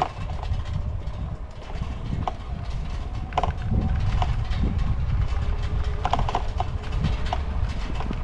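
Bicycle riding: a steady low rumble of wind and road on the microphone, with short squeaks and clicks from the moving bike scattered through it.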